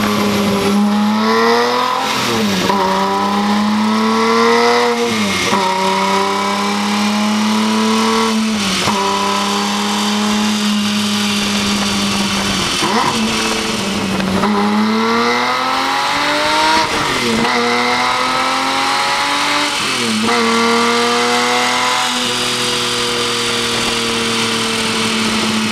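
Lamborghini Murciélago's 6.2-litre 60° V12 running through its stock exhaust. The revs climb and then drop sharply several times, with the engine note held steady in between.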